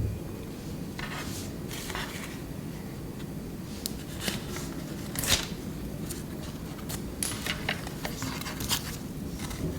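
Scattered light clicks, taps and scrapes of kitchen utensils and dishes being handled, with the sharpest click about five seconds in and a run of small ticks near the end.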